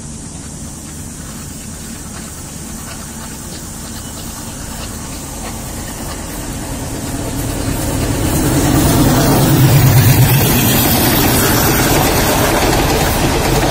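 A passenger train's diesel locomotive approaches on the adjacent track and passes close by, its engine growing louder and loudest about nine to ten seconds in, followed by the rush of its coaches rolling past.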